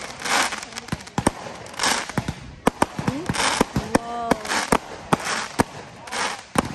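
Fireworks display: aerial shells bursting in a quick, irregular string of sharp bangs, with longer crackling bursts between them.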